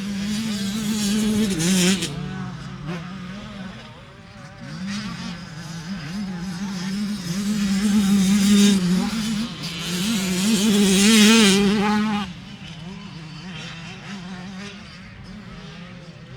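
Racing engines at high revs passing close by several times, over a steady background engine drone; the sound drops suddenly to a quieter drone about twelve seconds in.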